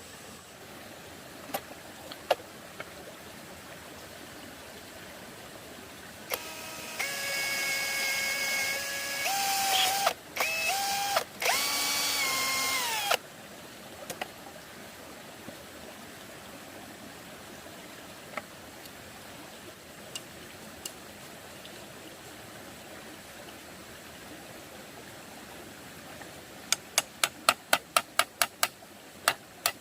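Electric drill motor whining for about six seconds, its speed stepping up and down with short stops in between. A few scattered clicks come before it, and a quick run of sharp taps, about six a second, comes near the end.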